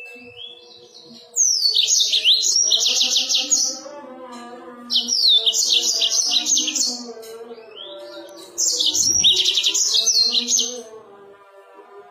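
A songbird singing three loud phrases of rapid, high chirping notes, each about two seconds long and separated by short pauses, over quieter background music.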